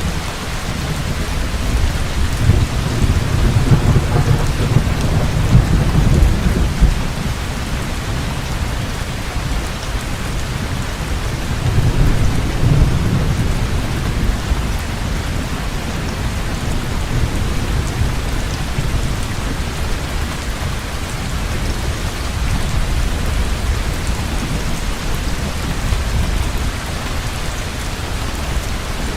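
Heavy rain falling steadily, with rolling thunder rumbling low twice: a long swell in the first several seconds and a shorter one a little before the halfway point.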